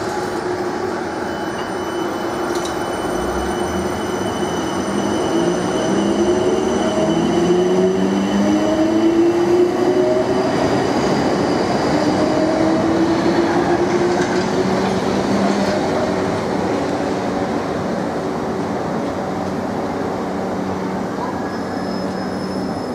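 Electric multiple-unit train pulling out along the platform, its motors giving a whine that rises in pitch in several steps over the rumble of wheels on rail. It is loudest about halfway through, then eases to a steadier hum.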